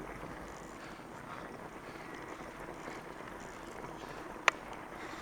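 Steady rushing noise of a fat bike being ridden along a packed-snow trail, with one sharp click about four and a half seconds in.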